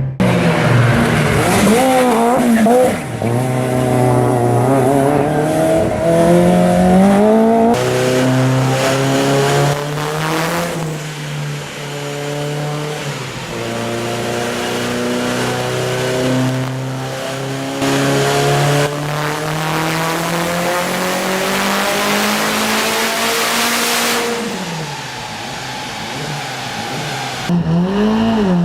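Four-cylinder car engine being driven hard through the gears: its pitch climbs, drops back at each shift and climbs again, several times over. About three-quarters of the way through, the revs fall away as it lifts off.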